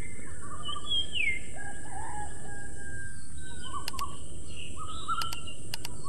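Faint bird calls and chirps over steady outdoor background noise. Several sharp clicks come in the last two seconds.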